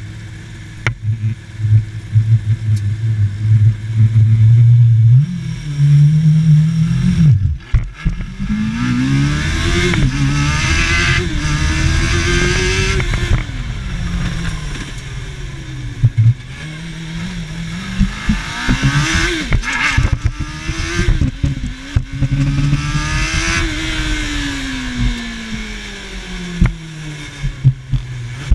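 Formula SAE race car engine running steadily, then accelerating hard with its pitch climbing and dropping back at each gear change, easing off, and pulling through the gears a second time before winding down as the car slows. Sharp loud clatters break in here and there.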